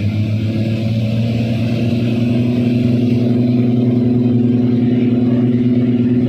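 Cessna 414's twin turbocharged flat-six piston engines running at high power for a high-speed taxi, their drone climbing a little in the first second, then holding steady and loud.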